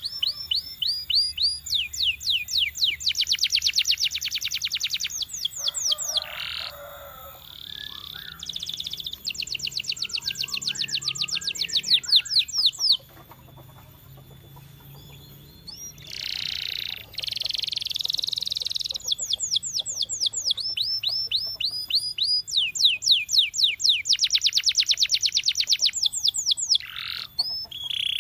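Domestic canary singing: phrases of very fast, high repeated notes run together into trills, with a brief pause a little under halfway through before the trilling resumes.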